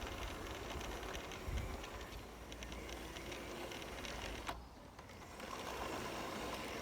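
Lionel G scale James the Red Engine toy locomotive running on its track: the electric motor and gears whir, with light clicks from the wheels. The sound dips briefly about four and a half seconds in, then picks up again.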